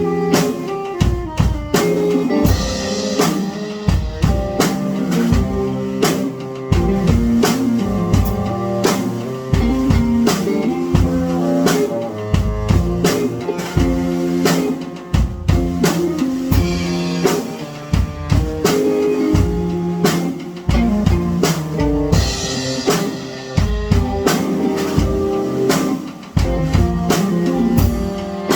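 Music led by a drum kit, with kick and snare hits in a steady beat over held pitched notes.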